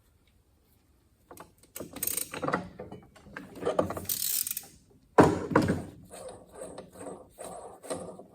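Metal transmission parts and hand tools being worked, with irregular clicks and clatter, one sharp metallic knock about five seconds in, and a run of smaller clicks like a ratchet as the 5th gear nut is run on and backed off. Starts after about a second of near silence.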